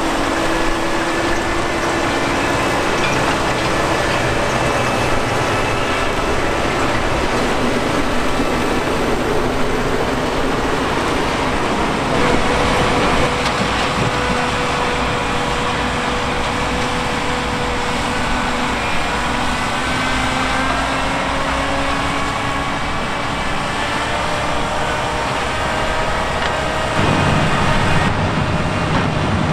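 Heavy sugar beet harvesting or loading machinery running steadily: diesel engine drone with a busy mechanical rattle, the engine note drifting slowly in pitch. The low part of the sound grows stronger near the end.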